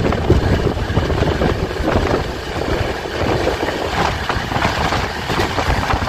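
Passenger express train running at speed, heard from an open coach door: a steady rumble of wheels on the rails with dense irregular clattering.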